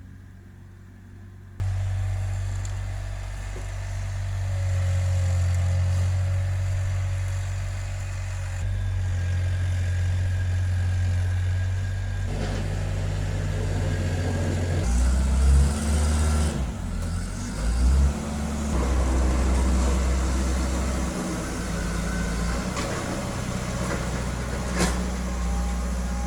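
Engine of a snow-clearing machine working close by, scraping snow off a pathway; a steady low engine hum that gets suddenly louder about two seconds in, with a few surges in engine note in the second half.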